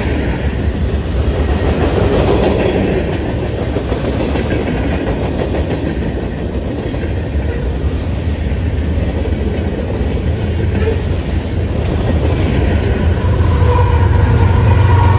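Freight cars of a manifest train rolling past close by, a steady rumble with the clatter of steel wheels on the rails. Near the end the train's rear distributed-power diesel locomotives come past, adding a louder low engine hum.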